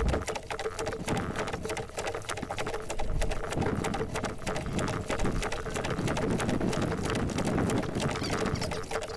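Water pattering and lapping against the hull of a small sailing dinghy under way, a dense run of small clicks and splashes.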